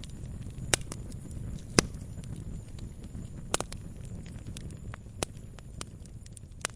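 Fire burning in a fireplace: a steady low rumble with constant small crackles and a handful of sharper pops, the loudest about two seconds in.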